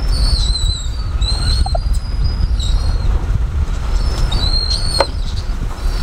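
Birds giving short, high whistled calls again and again over a steady low rumble. There is one sharp knock about five seconds in.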